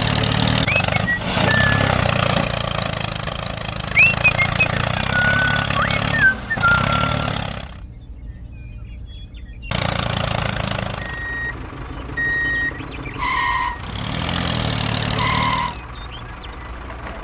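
Small vehicle engine running, broken by a brief quiet gap about halfway through, with a few short high squeaks and, later, short steady high-pitched tones.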